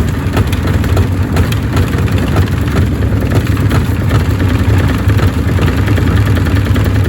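Gorenje washing machine running with heavy bricks in its drum: a loud, steady motor drone with constant irregular knocking and clattering of the bricks.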